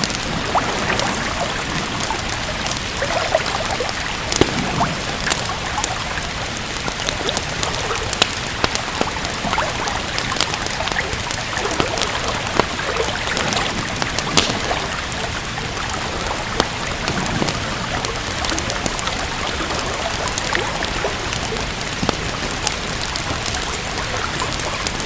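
Steady rain with frequent sharp pops and crackles from a wood fire, scattered irregularly through the steady hiss.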